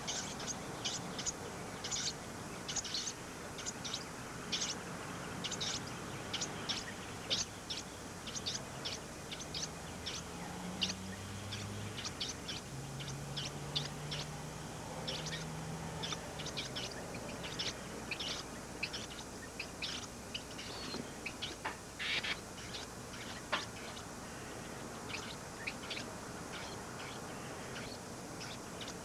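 Baby birds chirping: short, high peeps repeated about once or twice a second throughout. A faint low hum comes in for a few seconds partway through.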